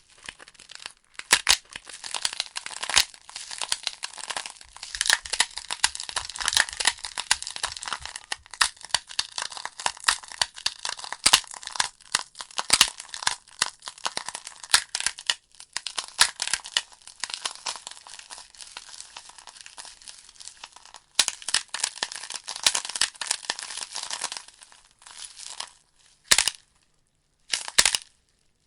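Logs burning in a fireplace, crackling densely with many sharp pops and snaps over a hiss; the crackle thins to a few separate pops with short gaps near the end.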